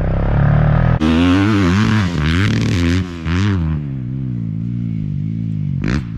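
Dirt bike engine revving up and down repeatedly as it is ridden, then running at a steadier, lower pitch from about four seconds in.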